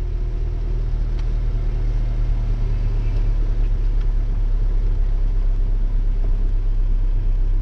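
Toyota MR2 Spyder's 2ZZ-GE four-cylinder engine idling steadily, a constant low rumble heard from inside the cabin.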